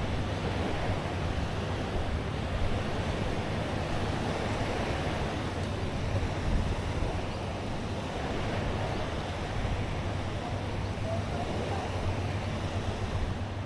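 Waves washing on the shore with wind on the microphone, over a steady low hum.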